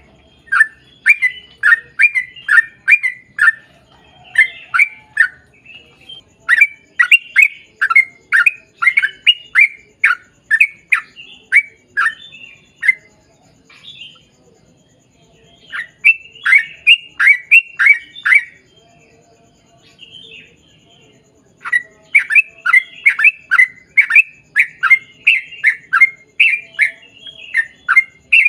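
Yellow-vented bulbul (trucukan) singing long runs of short notes, each sliding down in pitch, two to three a second. The runs come in several bouts with brief pauses between them.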